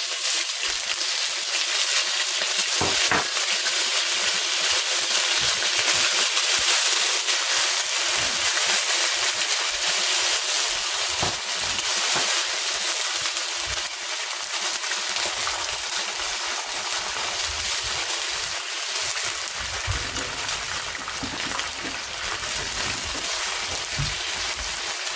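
Ginger-garlic paste sizzling steadily in hot oil with whole spices in a wok, stirred now and then with a spatula.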